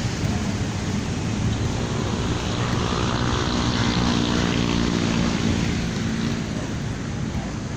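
An engine droning past, its hum clearest from about two to six seconds in, over a steady background rush of wind and traffic.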